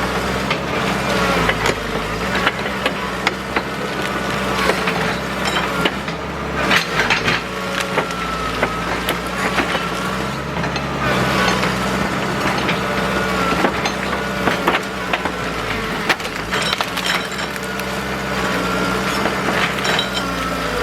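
Excavator engine and hydraulics running steadily with a wavering whine, while wood and brush crack and snap many times under the machine and the log it is moving.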